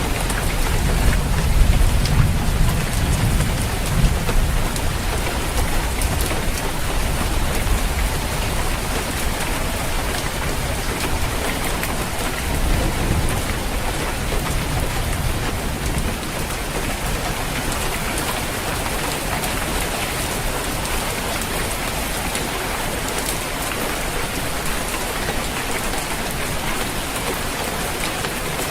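Steady rain pattering on a roof, with low rolling thunder rumbling through the first several seconds and again briefly about halfway through.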